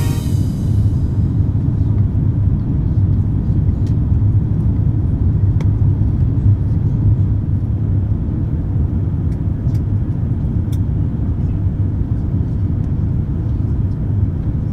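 Airbus A350-900 cabin noise heard from an economy seat during the approach: a steady, deep rumble of engines and airflow, with a few faint clicks.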